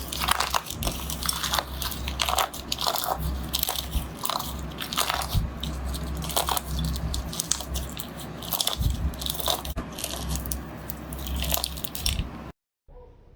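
Slime being squeezed and pressed by hand, with dense, irregular crackling and popping. It cuts off abruptly near the end.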